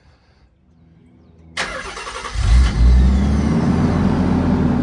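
1991 Nissan 300ZX Twin Turbo's 3.0-litre twin-turbo V6 starting: the starter cranks about a second and a half in, the engine catches with a brief rev, then settles into a steady idle.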